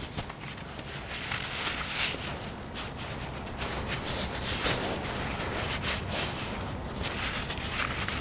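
Irregular soft rustling and scuffing noises of a person moving about and handling things.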